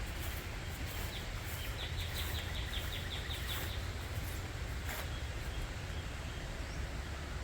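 Outdoor ambience with a steady low rumble, and a small bird giving a quick run of about a dozen high chirps, roughly four a second, starting about a second in and lasting a couple of seconds.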